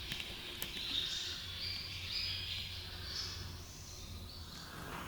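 Swallows twittering in short, high chirps, over a low steady background rumble.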